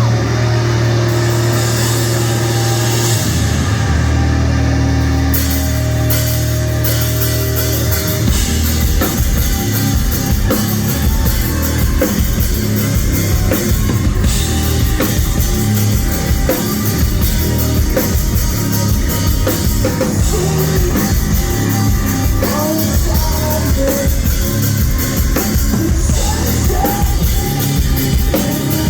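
Live rock band playing loud, recorded on a phone: long held low chords for about the first eight seconds, then the drums come in and the full band plays, with singing over it.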